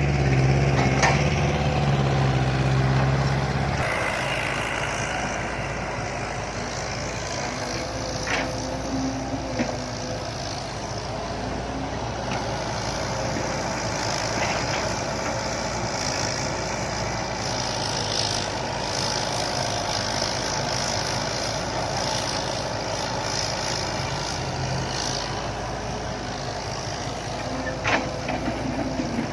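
Diesel dump truck engines running loud through aftermarket exhausts, the deep engine note strongest for the first few seconds and then settling into a steady din of truck and digging machinery, with a few short knocks.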